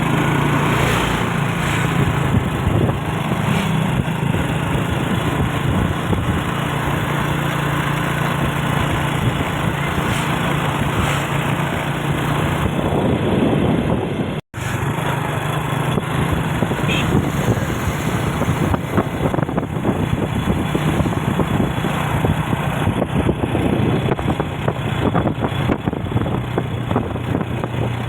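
Vehicle engine running steadily on the move, with a constant low hum under road and wind noise; the sound drops out for an instant about halfway through.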